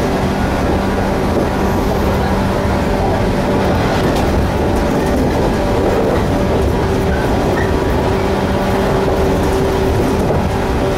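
Electric train running at speed, heard from inside the carriage: a steady rumble of wheels on rail and running gear. A low steady hum drops out near the end.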